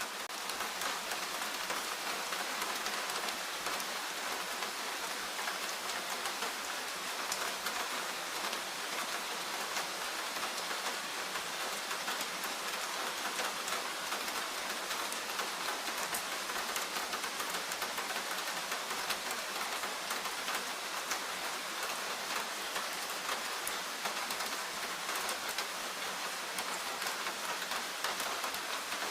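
Steady rain falling in a forest, a dense even patter of many drops with no let-up.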